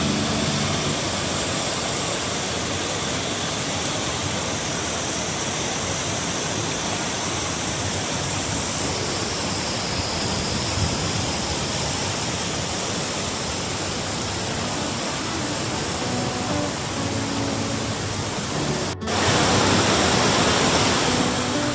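Waterfall: a steady rush of falling water. It breaks off for a moment near the end and comes back louder.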